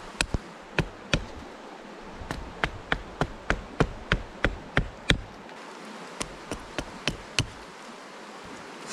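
Repeated sharp knocks of a tool striking wood, about three a second in a run of ten from about two to five seconds in, with a few more before and after. Insects buzz steadily behind.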